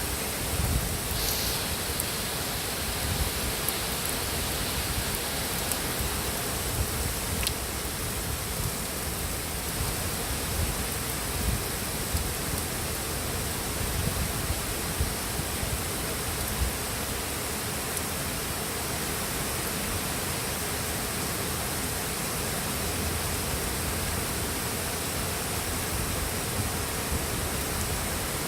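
Very heavy rain pouring down in a steady hiss, with occasional louder drips or splashes.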